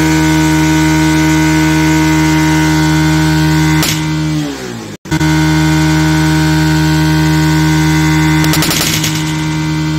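Bajaj Pulsar RS200's single-cylinder engine idling steadily, its exhaust blowing up a balloon on the silencer. The balloon bursts with a sharp bang about four seconds in, and the engine note falls away. After a cut it idles again, and another bang comes about nine seconds in as a second balloon bursts.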